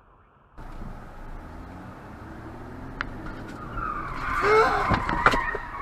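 Car running over the road, then tyres squealing loudly in a skid from about four seconds in, with several sharp knocks near the end.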